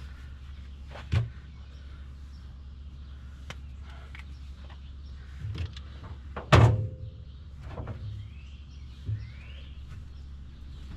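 Sheet metal panel being handled and fitted against a car body: a few sharp metallic knocks and clunks, the loudest a little past halfway with a short ring, over a steady low hum.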